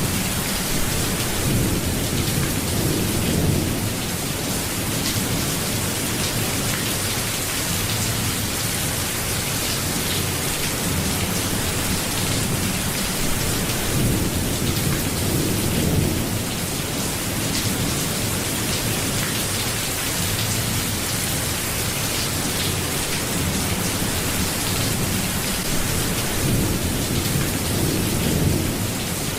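Steady rain falling, an even hiss, with a low rumble swelling and fading three times, roughly every twelve seconds.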